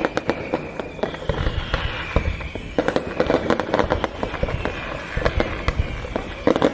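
Fireworks display: a rapid, continuous run of bangs and crackling, with several high whistles falling in pitch.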